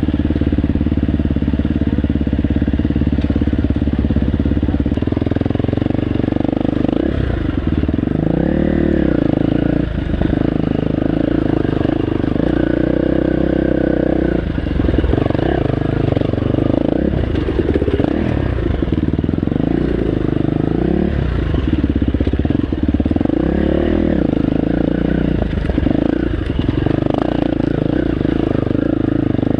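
Dirt bike engine running while being ridden: steady for the first several seconds, then the revs rise and fall again and again.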